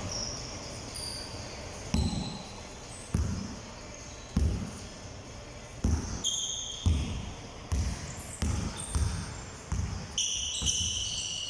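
Basketballs bouncing on a hard court floor, a thud about every second, sometimes quicker, with short sneaker squeaks about six seconds in and again near the end.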